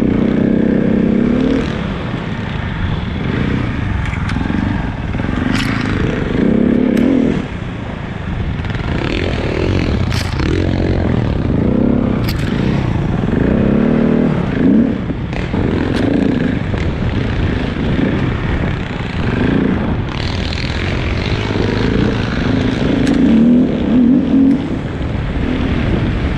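KTM 690 single-cylinder engine revving up and down over and over as the motorcycle is ridden along a rough dirt trail. A steady rush of wind and riding noise runs underneath, with a few sharp clicks and knocks.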